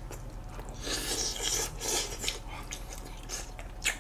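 Close-miked chewing of soft boiled chicken: wet, rasping mouth sounds that come in irregular bursts, with a sharp click near the end.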